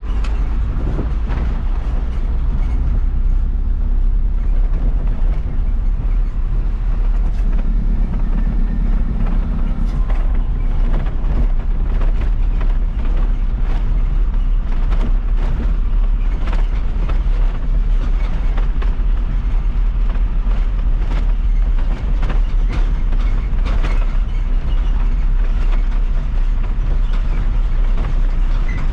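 Isuzu FRR90 truck under way, its diesel engine running with a steady low rumble, and frequent short rattles and knocks from the body as it goes over the road.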